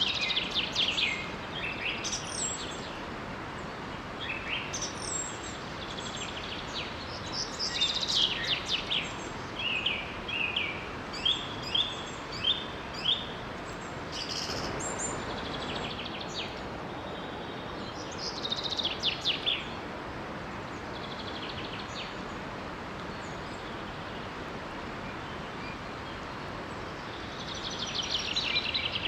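Several songbirds singing and calling in clusters of chirps and rapid trills, over the steady rush of a small waterfall.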